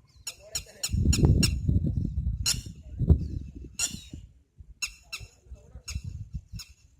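Water birds giving short, high, squeaky calls, repeated in quick runs of several calls, over a low rumble that is loudest in the first half.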